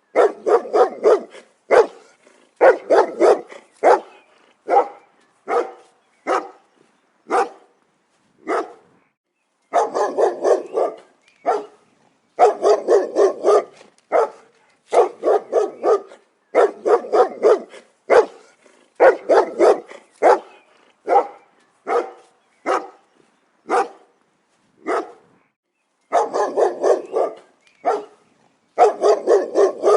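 A dog barking in quick runs of several barks at a time, with short pauses between the runs.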